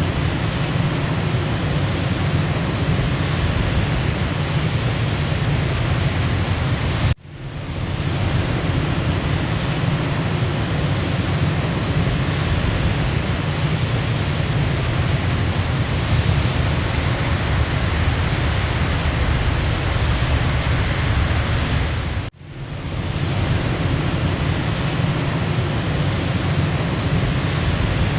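Waterfall: a steady, heavy rush of falling water, deepest in the low end. It drops out briefly twice, about 7 and 22 seconds in, and swells back within a second each time, as at the seams of a looped recording.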